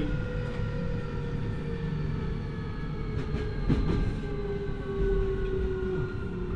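Keio 1000 series electric train's VVVF inverter and traction motors whining as a stack of tones that slowly falls in pitch as the train slows towards the next station. Steady wheel-on-rail rumble runs underneath, with a few sharp clicks a little past three seconds in.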